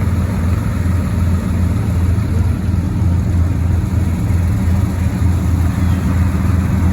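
Aircraft engines idling at low power as planes taxi, a steady low drone that pulses slightly.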